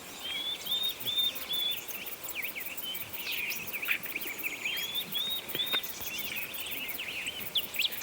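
Birds singing: a busy mix of quick chirps, warbles and short repeated whistled notes.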